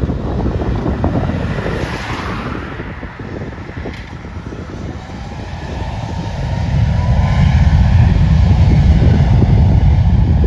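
Jet engine noise from a Boeing 737 MAX 8 departing, with wind buffeting the microphone. The low rumble swells about seven seconds in.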